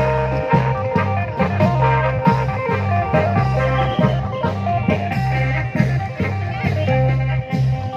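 Klong yao (Thai long drum) procession band playing lively music: a steady beat of drum strokes with a melody held over it.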